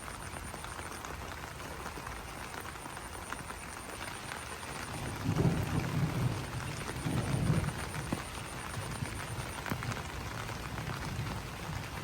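Rain falling steadily on broad banana leaves, an even patter of drops. Two short low rumbles swell up about five and seven seconds in, louder than the rain.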